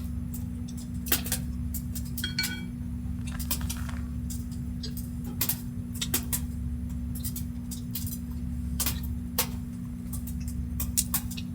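Scattered light clicks and clinks of small hard objects, with one brief ringing clink about two seconds in, over a steady low hum.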